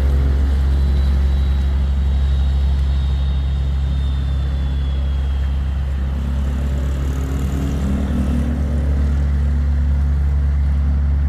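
Boat engine running steadily under way against a river current: a deep, even drone, with a faint high whine slowly falling in pitch over the first half.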